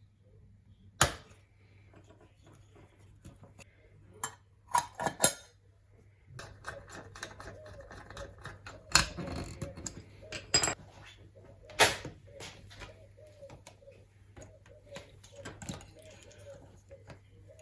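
Hand tools and small metal parts being handled on a workbench: a string of sharp clicks and clinks, a few louder knocks among them, over a faint murmur.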